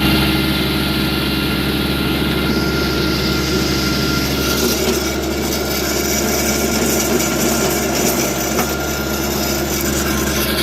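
Kubota tractor engine running steadily at working speed.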